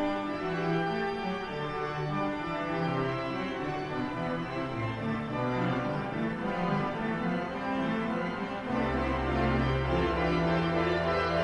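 Organ postlude: sustained chords moving through a melody, with deep pedal bass notes coming in about nine seconds in.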